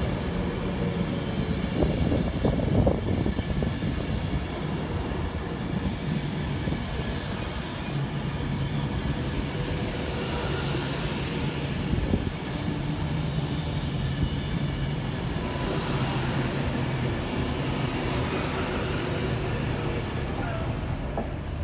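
Class 390 Pendolino electric train running along the platform at low speed: a steady rumble and electric hum, with wheels knocking on the rails a few times about two to three seconds in.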